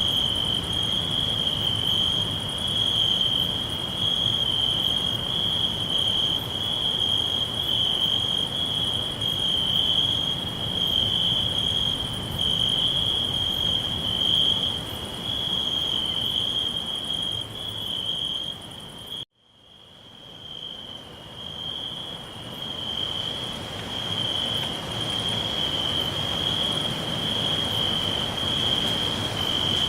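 Crickets trilling in a steady, slightly pulsing chorus over a low background hiss. About two-thirds of the way through, the sound cuts out abruptly and then fades back in over a few seconds.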